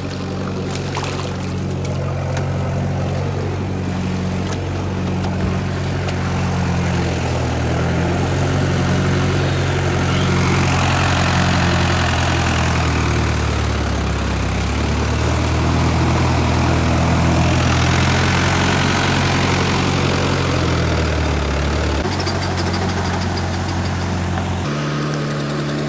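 Tractor's diesel engine running steadily under load as the tractor, sunk into soft ground, tries to drive out. From about ten seconds in, a louder rushing noise joins it for about ten seconds, and the engine note changes twice near the end.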